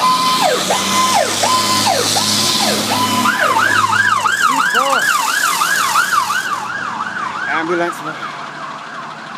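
Fire apparatus siren cycling up and down about every two-thirds of a second, then switching to a faster yelp of about three and a half cycles a second a little over three seconds in. It fades away over the last couple of seconds.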